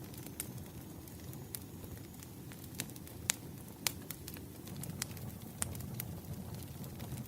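Wood fire crackling: irregular sharp pops and snaps over a steady low rumble of burning firewood, the loudest pops a little past the middle.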